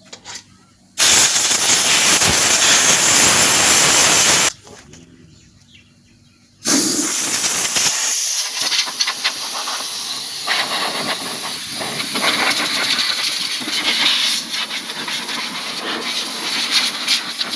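Compressed-air blow gun blasting air in two long bursts: a steady blast of about three and a half seconds, then after a short pause a longer blast that flickers and wavers in level as it is played over the parts.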